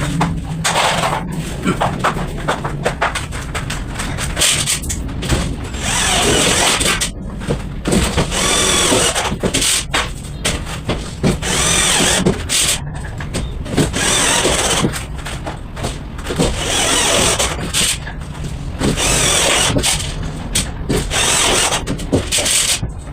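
Power tool running in repeated bursts of a second or two, with knocks and rattles between them.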